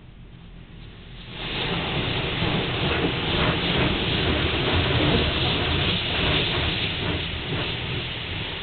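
Automatic car wash machinery starting up about a second in: a loud, steady hissing rush with an uneven patter over it, which lasts the rest of the time.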